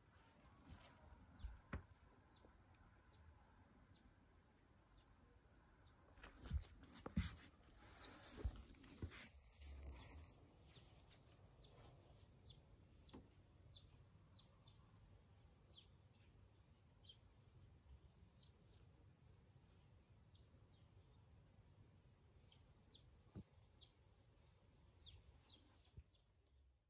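Faint small birds chirping outside: short, high, falling chirps, scattered irregularly, over near-silent room tone. A few soft knocks and thumps about six to nine seconds in are the loudest sounds.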